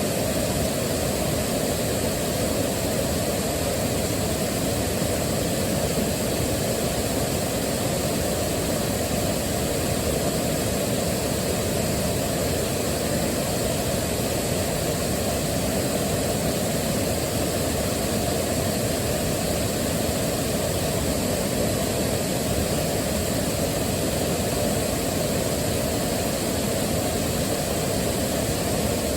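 Waterfall: a steady, unbroken rush of falling water, deepest and strongest in its low rumble.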